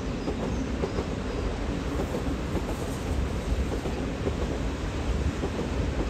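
Deutsche Bahn ICE train running past on electrified track: a steady rumble of wheels on rail.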